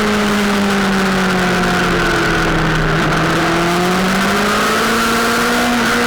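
Sportbike engine running at speed, its revs easing down to a low point about three seconds in and then climbing again, over a steady rush of noise.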